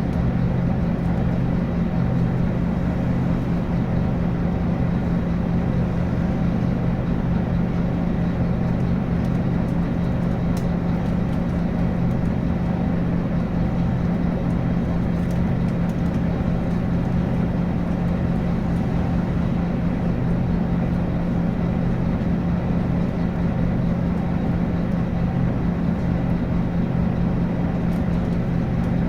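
Scania N280UB city bus's five-cylinder diesel engine running with a steady, unchanging hum.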